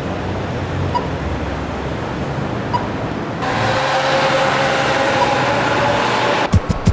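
Street traffic noise, louder from about halfway through with a steady engine drone as a vehicle comes close. Near the end, a few sharp low thumps begin.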